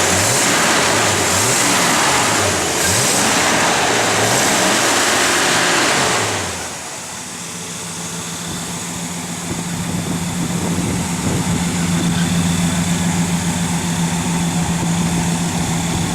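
Cadillac car engine revved several times, its pitch rising and falling with each blip. About six seconds in it drops back to a steady idle.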